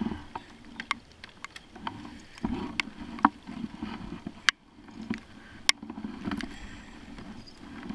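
Raindrops tapping irregularly on a plastic sit-on-top kayak and the camera, as sharp scattered ticks over a low sloshing of water against the hull.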